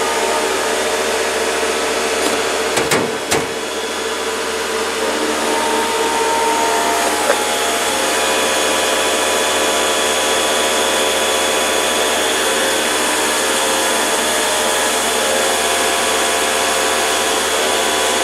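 A motor-driven machine running steadily with a loud, even whine and hum, with a couple of brief knocks about three seconds in.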